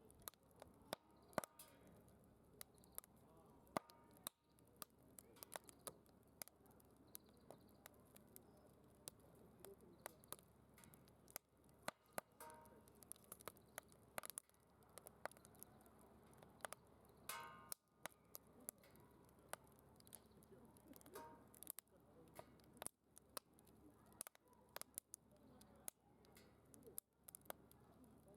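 Firewood crackling in a DOD Mechamoe Fire secondary-combustion fire pit: frequent, irregular sharp pops and snaps over a faint background, with a few brief faint tones in between.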